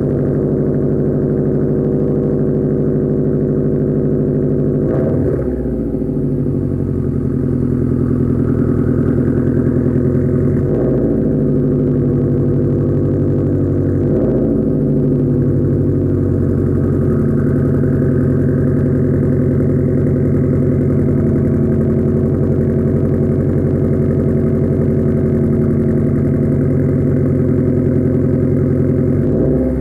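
2009 Subaru WRX's turbocharged flat-four idling after a cold start, heard through a 3-inch Nameless cat-back exhaust with quad tips and a muffler-delete axle-back. A steady, loud idle whose note briefly dips and recovers about three times.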